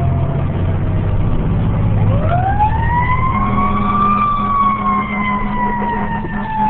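Fire engine siren sounding over a heavy diesel engine rumble. The siren falls slowly, then rises steeply about two seconds in and slides slowly down again. The engine rumble drops away at about the same moment the siren rises.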